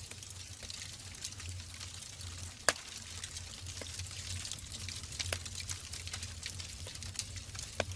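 Wood logs burning in a fireplace: a steady hiss and low rumble with scattered crackles, and one loud pop a little under three seconds in.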